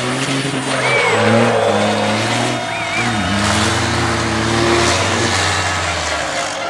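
Racing truck engines running and revving, their pitch rising and falling with short high squeals over them.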